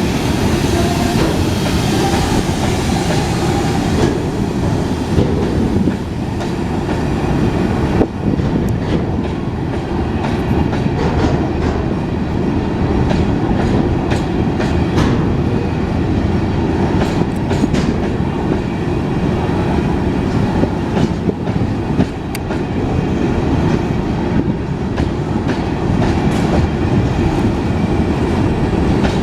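Long train of empty coal wagons rolling past, a steady rumble with wheels clacking over the rail joints.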